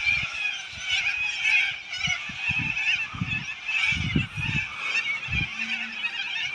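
A large flock of birds calling all at once, a dense din of many overlapping calls with no pause, and a few low thuds mixed in.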